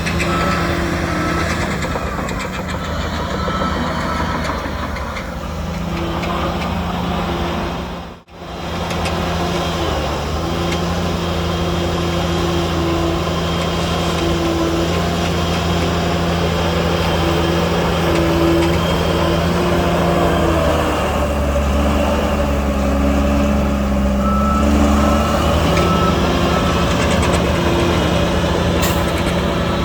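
Heavy diesel earthmoving machinery, a bulldozer and dump trucks, running steadily, the engine note shifting up and down as the load changes. A reversing alarm beeps briefly near the start and again for several seconds near the end, and the sound drops out briefly about eight seconds in.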